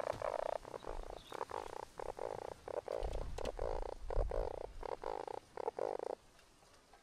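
Raspy, croak-like animal calls repeated in quick succession, stopping about six seconds in.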